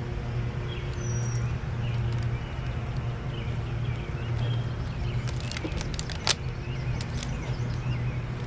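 Rubber bands being stretched and snapped onto a watermelon: a few sharp snaps about five to seven seconds in, one louder than the rest. A steady low hum and faint bird chirps run underneath.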